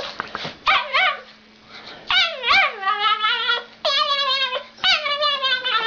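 An animal giving a series of high, whining calls that slide up and down in pitch, several with a fast wavering warble.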